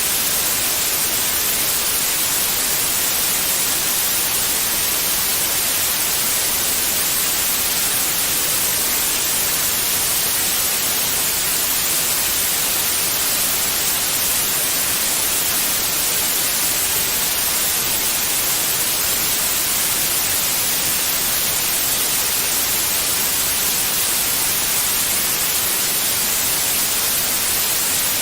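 Continuous white noise, a steady, unchanging hiss that is strongest in the high treble.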